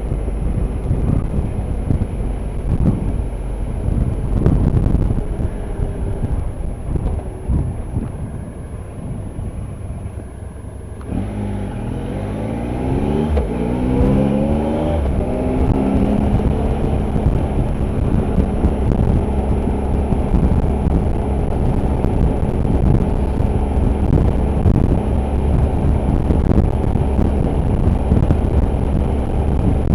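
Motorcycle on the move with engine rumble and wind noise. It eases off for a few seconds, then about eleven seconds in it accelerates, its engine note rising through the gears, and settles into a steady cruise.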